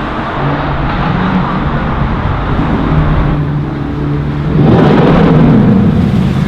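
Car engine running with a low, steady note, then getting suddenly much louder about four and a half seconds in as it is given hard throttle.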